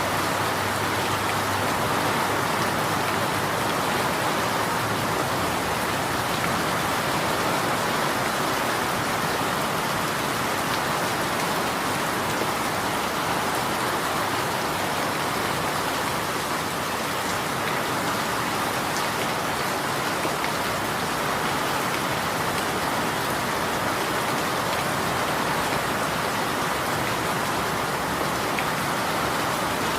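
Steady rain falling, an even hiss of drops on a surface with faint scattered patters.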